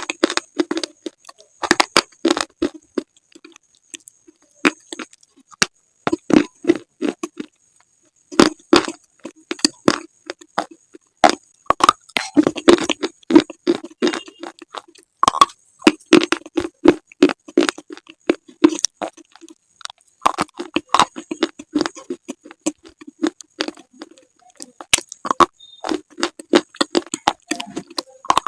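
Slate being bitten and chewed up close: repeated sharp snaps as pieces break off, each followed by quick gritty crunching chews, with a few short pauses.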